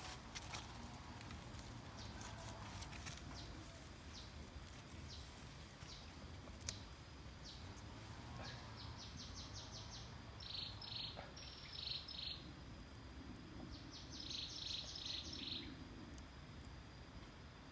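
Outdoor countryside ambience: a steady high thin whine with two stretches of rapid, high pulsed chirping, and scattered light clicks, one sharper tick about seven seconds in.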